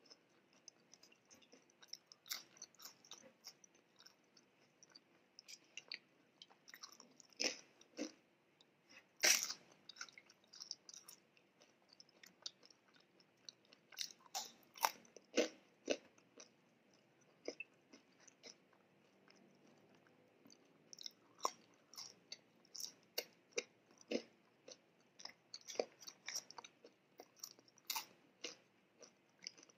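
Close-miked chewing and biting of food, French fries among it: irregular soft crunches and mouth clicks, the loudest about nine seconds in.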